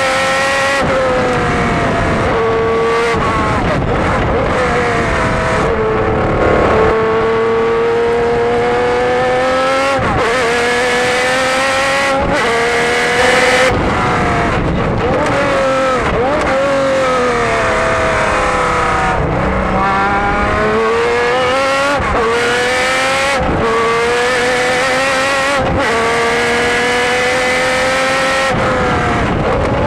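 Jaguar XJR-12 Group C race car's V12 engine at racing speed, heard from on board. It revs up hard and is shifted up through the gears again and again, its pitch climbing and then dropping sharply at each change, with slower falls as the driver lifts and brakes for corners.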